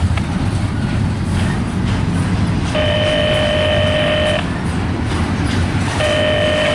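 CSX double-stack intermodal train's well cars rolling past, a steady rumble of wheels on rail. Over it, two long steady tones of a horn or warning signal, each about one and a half seconds, sound about three seconds in and again near the end.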